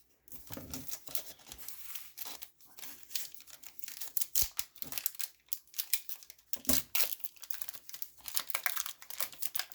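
Baseball card packs being torn open by hand, the wrappers ripping and crinkling in quick, irregular crackles.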